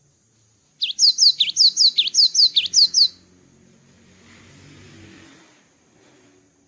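Cinereous tit singing a fast run of about a dozen sharp, high, down-slurred whistled notes, about five a second, for a little over two seconds. The song stops and is followed by a faint hiss.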